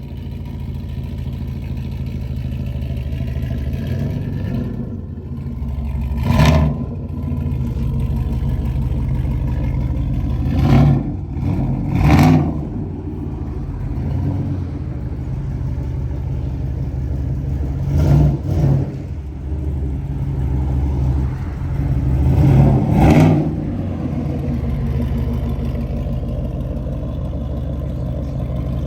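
Cammed 5.3-litre LS4 V8 of a 2008 Chevrolet Impala SS through a full 3-inch straight-pipe exhaust, running steadily with a deep drone, broken by about five short, loud bursts of throttle.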